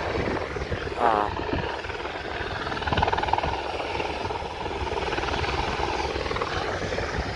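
Helicopter hovering nearby, its rotor making a steady, rapidly pulsing chop. A brief warbling sound cuts in about a second in.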